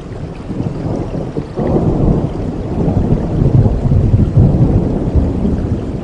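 Rain with a low rumble of thunder that swells about a second and a half in and keeps rolling.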